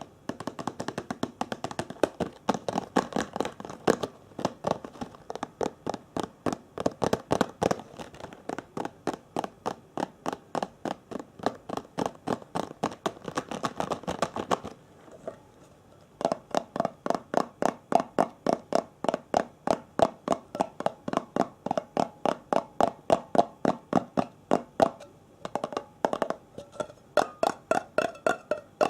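Rapid, even tapping on a hard object as an ASMR trigger, about five taps a second, each tap with a short ring. The tapping stops for about a second and a half halfway through, then resumes.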